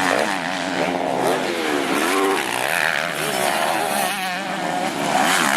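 Several motocross bikes' engines revving up and down as they ride the course, the pitch of each rising and falling with the throttle and overlapping one another; one bike comes louder near the end.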